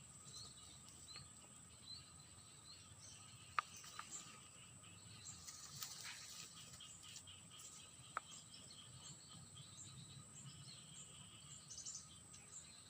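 Faint outdoor ambience: small birds chirping and a steady high insect drone, with two sharp clicks, one a few seconds in and one past the middle.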